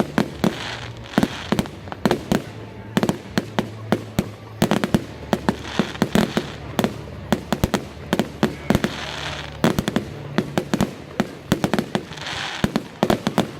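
Fireworks going off: a rapid, irregular run of sharp bangs from exploding shells, with short stretches of hissing crackle between them.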